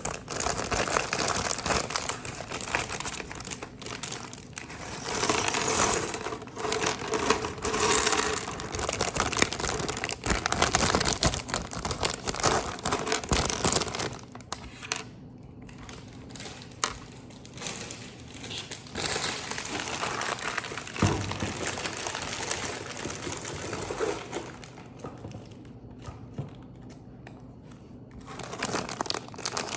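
Plastic wrapping from a Lego set crinkling and rustling as it is handled, busiest through the first half, then quieter with a few small clicks.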